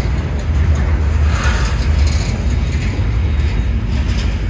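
Norfolk Southern train rolling past, a loud steady low rumble of wheels on rail, with a brief stretch of brighter rattling and hiss about a second and a half in.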